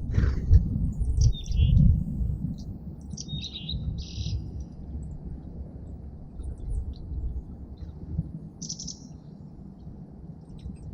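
Small songbirds chirping in short, high calls, several in quick clusters and then one more a few seconds later. A low rumble runs underneath and is loudest in the first two seconds.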